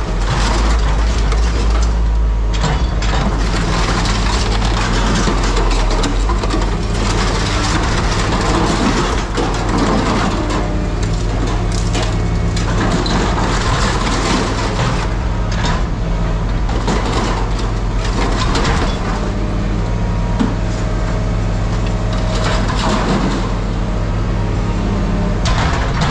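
Heavy scrapyard machinery running steadily with a low engine hum, while scrap metal crunches and clatters.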